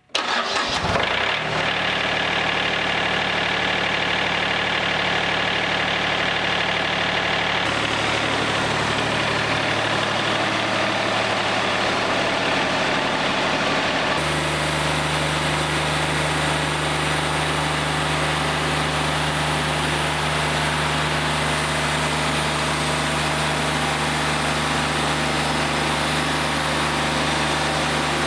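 Portable bandsaw sawmill engine starting up abruptly and then running steadily. Its note shifts twice, about 8 and 14 seconds in, as the engine speed changes.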